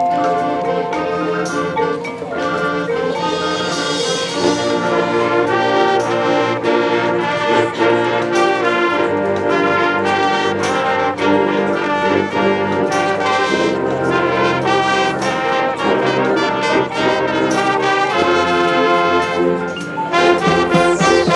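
A high school marching band's brass section playing a sustained, full passage with trumpets and trombones over percussion.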